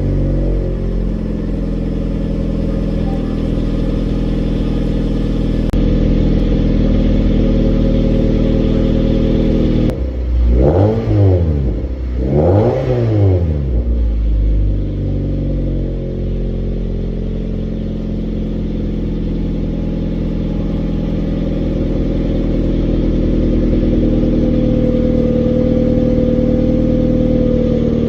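Hyundai Tuscani's engine and exhaust idling just after a cold start. About ten seconds in it is revved twice in quick succession, the pitch rising and falling each time, then it settles back to a steady idle.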